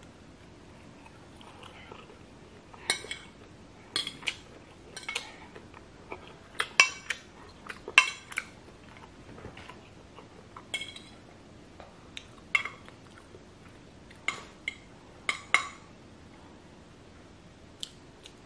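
Metal fork clinking and scraping against a ceramic plate while gathering rice noodles, in sharp clinks scattered about a second apart, some in quick pairs.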